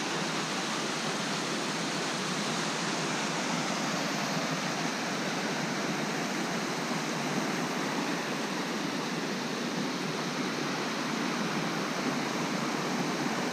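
Small waterfall pouring steadily: an even, unbroken rush of falling water.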